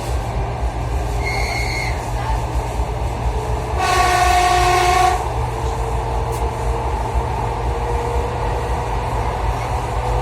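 Moving passenger train heard from inside the carriage, a steady low rumble. About four seconds in, a train horn sounds once for just over a second, with a short, high whistle-like tone a couple of seconds before it.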